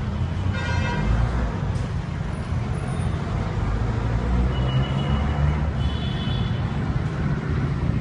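Chaser grinding machine running: a steady motor rumble with grinding noise, and brief high whining tones about half a second in and again around six seconds.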